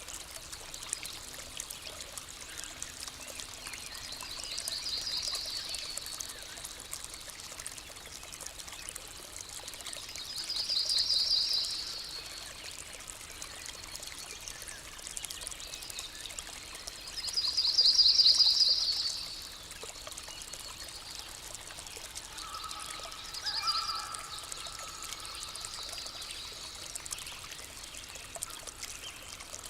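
A stream trickling steadily, with a high trilling call sounding three times, each about two seconds long and the third the loudest. A shorter, lower call comes near the end.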